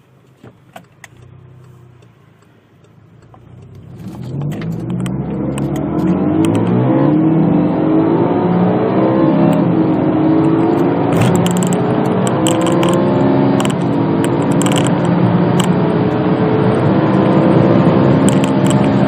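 Volkswagen Golf GTI's turbocharged four-cylinder engine accelerating hard. After a quiet start it gets loud about four seconds in, and its pitch climbs in repeated rising sweeps as the revs build through the gears.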